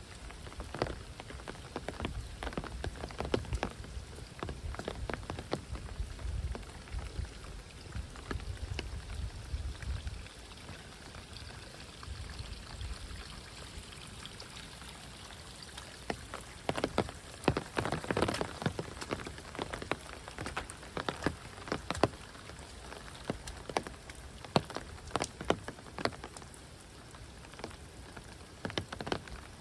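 Heavy rain falling steadily, with many large drops landing close by in sharp irregular taps that come thickest past the middle. A low rumble runs under the rain through the first third.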